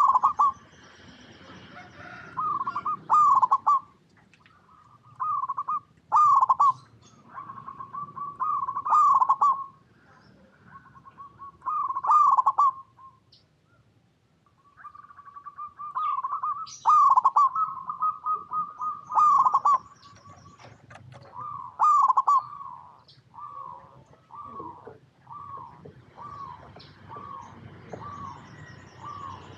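Zebra dove (perkutut) cooing: phrases of soft rolling coos repeated with short pauses. In the second half it gives a run of short single coos at an even pace of about one a second.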